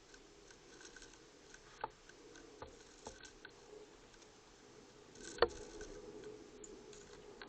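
A few sharp light taps and clicks, irregular and several seconds apart, the loudest about five and a half seconds in: birds pecking and landing at a feeder.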